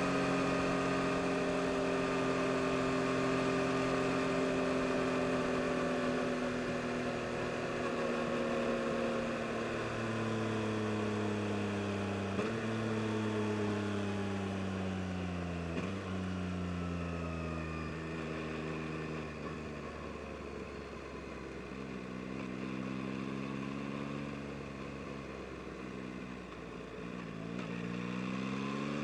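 2022 Yamaha MT-09 SP's 890 cc inline-three engine. It runs at a steady speed, then rolls off and slows on the engine, with the revs jumping up twice as it changes down. It settles, then picks up revs again as the bike accelerates near the end.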